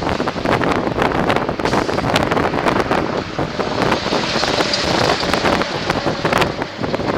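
Machinery on a 2005 Sterling flatbed truck running, with a dense, continuous clatter of knocks and rattles and a hiss that swells briefly around the middle.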